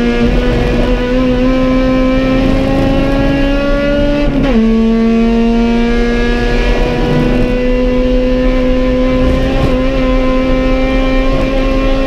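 Honda B18 four-cylinder engine of an EG Civic race car, heard from inside the stripped cabin, accelerating with its pitch climbing steadily. About four seconds in it drops sharply on an upshift, then climbs again in the next gear.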